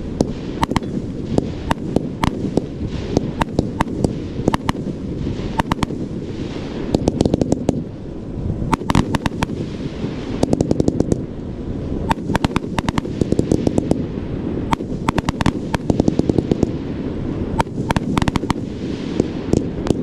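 A CLA14013 'Gold Tail to Gold Drills' 1.4G consumer fireworks cake firing shot after shot: sharp reports as shells launch and burst. Several times there are dense runs of rapid crackling pops as the glitter and drill effects go off, over a steady low rumble.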